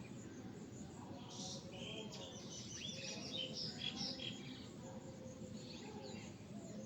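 A small bird chirping in a quick run of short, high notes from about one to four seconds in, with a few more chirps near the end, over faint background noise.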